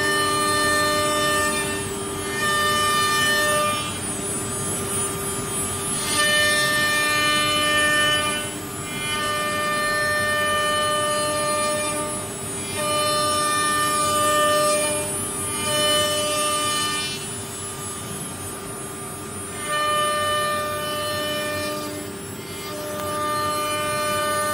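CNC woodworking router running: a steady whine with higher motor whines that start and stop every second or two as the machine moves.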